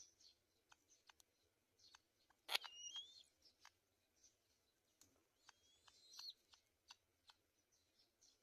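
Faint thin, high bird calls at a nest: a short whistled call riding on a sharp crackle about two and a half seconds in, and a second squeaky call about six seconds in. Soft scattered clicks and scratches throughout.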